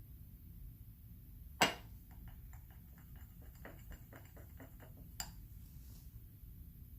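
Painting tools clicking and tapping: one sharp click, then a run of light quick taps at about four a second, then another click.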